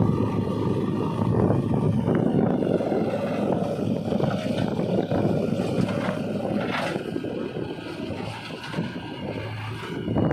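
JCB 3DX backhoe loader's diesel engine running steadily under load while it digs and loads mud, with a short sharp mechanical noise about seven seconds in.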